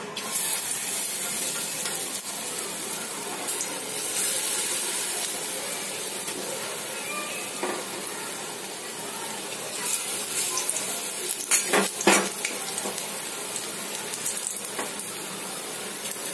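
Gram-flour-battered green beans sizzling as they fry in a shallow layer of oil in a metal wok. The sizzle jumps up about half a second in as battered beans go into the hot oil, then holds steady. A few sharp clicks come about twelve seconds in.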